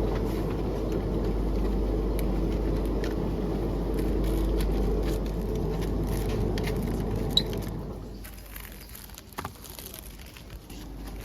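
Steady low rumble of a moving vehicle, heard from inside, that dies down about eight seconds in. A few small clicks follow.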